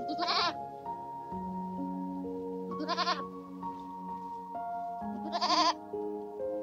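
Goat bleating three times, short quavering bleats a couple of seconds apart, over background music of sustained notes.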